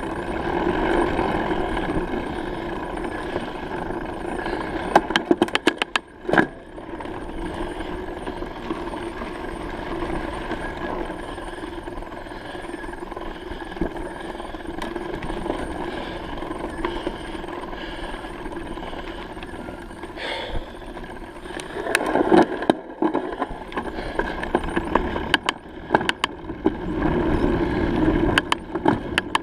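Bicycle riding noise: a steady rumble of tyres and wind, with rattling clicks in a few short clusters.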